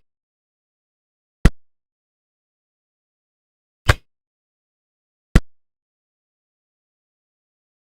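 Three sharp single knocks a second or two apart, each dying away quickly, with dead silence between them.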